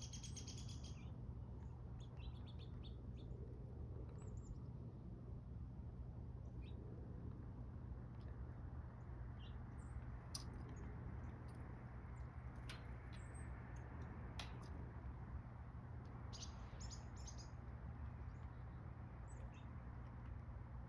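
Small birds at a backyard feeder giving short, high chirps and call notes now and then, in a quick cluster right at the start and again a few seconds before the end, over a steady low rumble.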